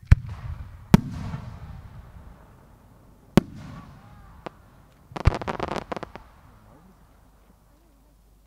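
Aerial firework shells bursting: sharp booms at the start, about a second in and about three and a half seconds in, each trailing off in a long rumbling echo. About five seconds in comes another boom, then a burst of rapid crackling.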